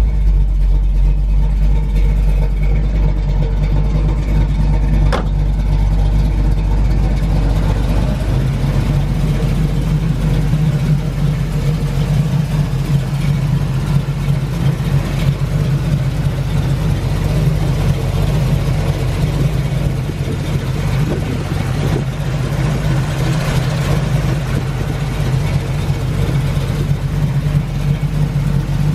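Big-block 427 V8 of a 1969 Yenko Camaro tribute running steadily at idle with a performance cam, heard as a steady low rumble.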